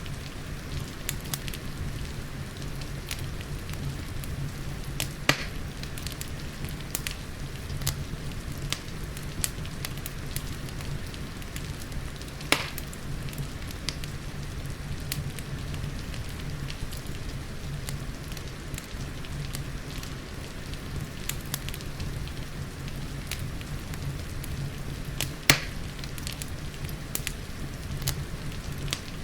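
Wood fire in a fireplace crackling, with frequent small sharp clicks and three louder pops, about 5, 12 and 25 seconds in. Behind it, a steady hiss of rain and a low rumble.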